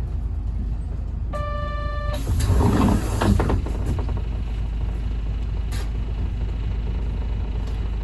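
Inside a city bus standing at a stop: a steady low rumble from the idling bus. About a second and a half in, one electronic beep sounds, followed straight away by a short rush of hissing noise.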